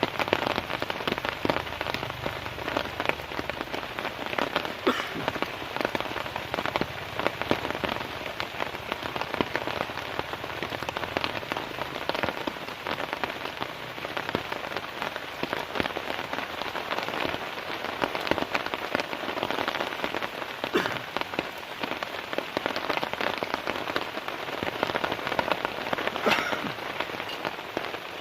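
Heavy, steady rain, with a dense spray of individual drops striking close by.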